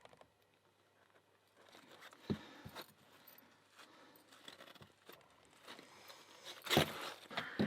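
Light metallic clicks and scrapes of a key being tried in an American 1100 padlock, handled in thick rubber drysuit gloves, with a louder flurry of clicking and rubbing near the end.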